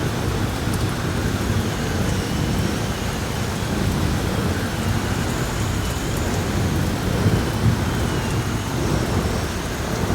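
Heavy rain pouring steadily under a continuous low rumble of thunder, with a faint high whistle of wind wavering up and down above it.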